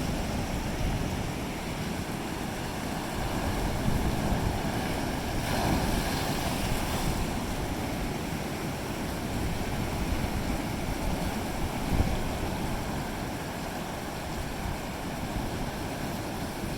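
Ocean waves breaking and washing ashore, a steady surf with a brief swell of louder wash about six seconds in. Wind buffets the microphone, with low rumbling gusts.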